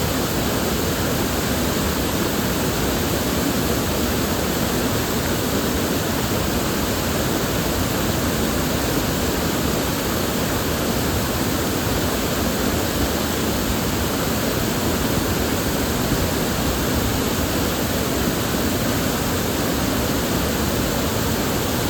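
River water flowing steadily, a constant rushing with no breaks or separate splashes.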